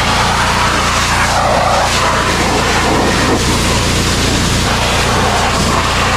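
Pressure washer running steadily, its motor humming under the hiss of the high-pressure water jet blasting the frame, the hiss shifting as the spray moves.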